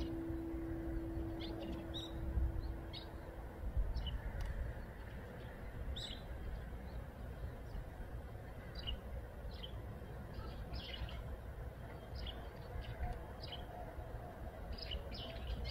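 Small birds chirping: short, high calls scattered throughout, some in quick runs of two or three, over a steady low rumble. A held note of background music fades out in the first few seconds.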